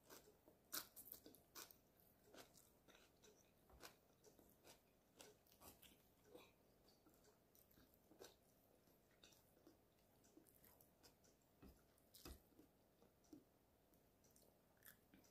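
Quiet, close-up chewing and crunching of stir-fried Chinese broccoli (kana) stalks: a run of short, crisp crunches and mouth clicks, loudest about a second in and again near twelve seconds.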